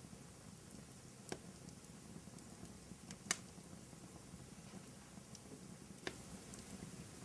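Wood fire burning in a fireplace: a low steady rush with a few sharp crackles and pops, the loudest about three seconds in.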